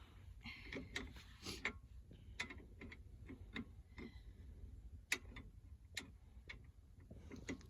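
Faint, irregular clicks and light taps, a little under one a second, over low background noise.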